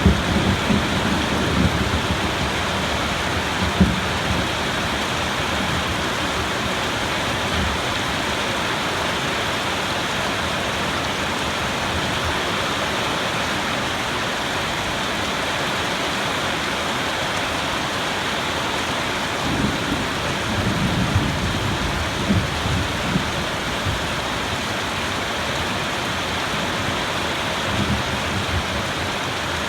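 Steady heavy rain, with low rumbles of thunder rolling in at the start, again about two-thirds of the way through, and briefly near the end.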